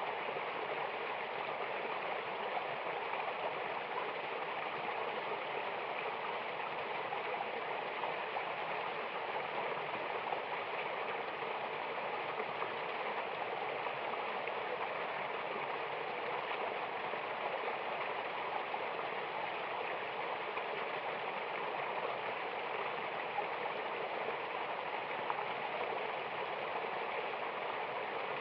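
Mountain river or waterfall water rushing steadily, an even hiss of flowing water with no change in level.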